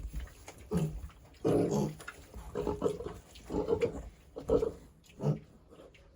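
Young pigs grunting in a pen: about six short grunts, roughly one a second.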